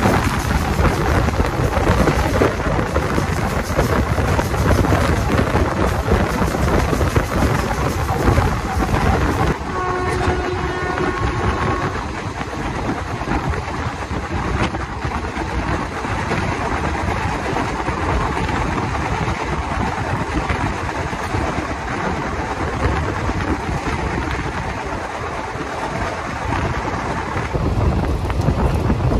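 Express train running, heard from on board: a loud, steady rumble and rush of wheels on rails and wind. About ten seconds in, a horn sounds for about two seconds.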